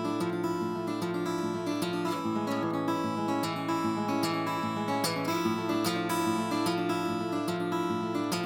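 Vintage Japanese acoustic guitar being played, picked chords ringing in a steady pattern of notes about twice a second.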